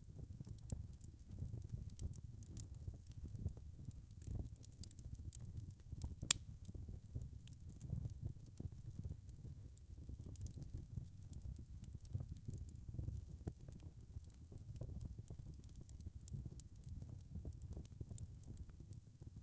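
Wood fire crackling: many small irregular pops over a steady low rumble, with one sharper pop about six seconds in.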